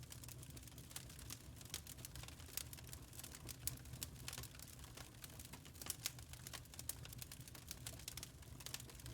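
Wood fire crackling in a fireplace: many small, irregular snaps and pops over a steady low sound of the burning.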